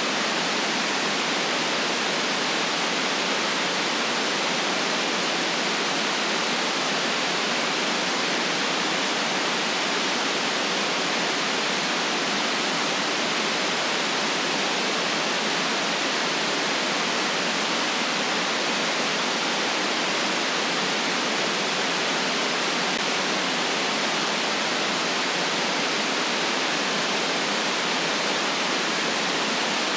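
Steady white noise: an even, unchanging hiss with very little low rumble.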